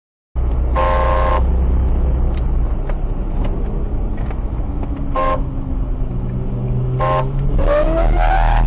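A vehicle engine running hard, its pitch shifting as it speeds up, with a car horn sounded three short times. Near the end a police siren starts, its wail rising.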